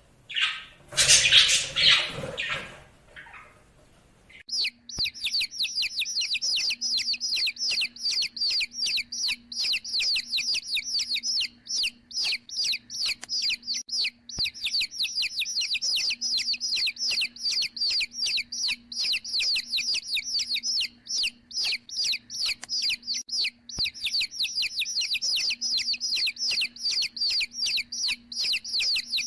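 A bird chirping rapidly and without letup, about five short high chirps a second with a few brief breaks. It is preceded by a loud, brief, harsh call in the first few seconds, and a faint steady hum runs underneath.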